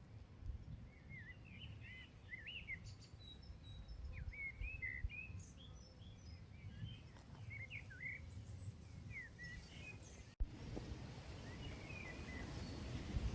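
Small songbirds chirping in short, quick, up-and-down calls, repeated in clusters over a low background rumble. About ten seconds in the sound cuts abruptly to a louder, steady hiss.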